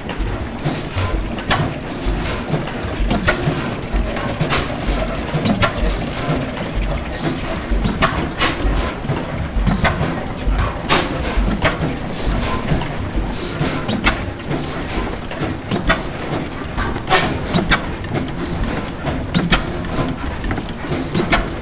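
Gardner heavy oil engine running steadily: a continuous low thudding with sharp, irregular clicks over it.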